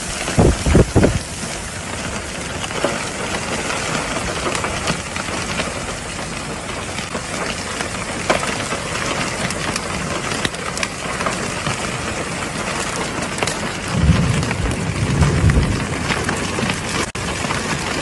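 Heavy rain pouring down in a steady hiss, with low rumbles just after the start and again, louder, from about fourteen to sixteen seconds in.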